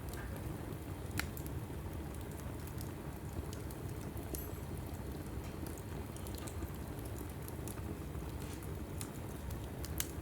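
Log fire burning in a fireplace: scattered sharp crackles and pops over a steady low rumble of flame, with a louder pop about a second in and another near the end.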